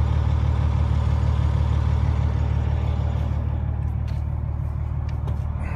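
A 2007 KME rescue engine fire truck's diesel engine idling with a steady low rumble, growing slightly quieter near the end.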